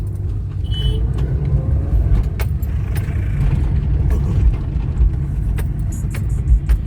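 Car on the move: a steady low rumble of engine and road, with scattered sharp clicks and rattles.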